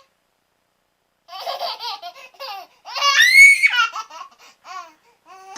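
High-pitched laughter from a young child in short rapid bursts, rising to a loud squeal about three seconds in.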